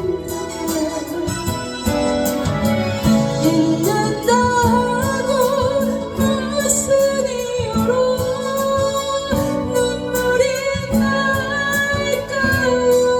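A woman singing a slow Korean ballad, accompanied by a strummed acoustic guitar, with long held notes over a steady strum.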